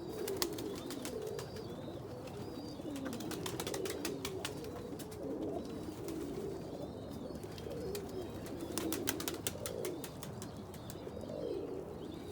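Domestic pigeons in a loft cooing, many low overlapping coos throughout, with scattered sharp clicks and taps in between.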